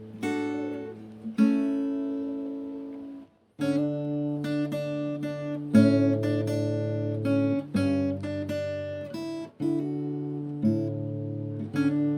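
Background music: acoustic guitar playing chords and notes, with a brief break about three and a half seconds in.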